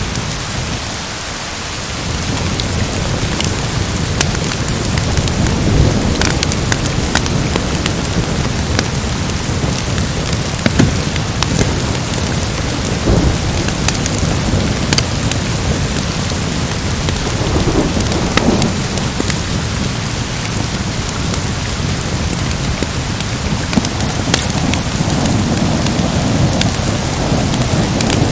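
Steady heavy rain in a thunderstorm, with low rolls of thunder rising and fading several times.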